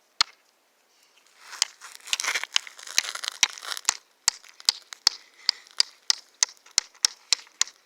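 Crackling and tearing as a piece of natural material is broken apart by hand, followed by a quick run of sharp little snaps.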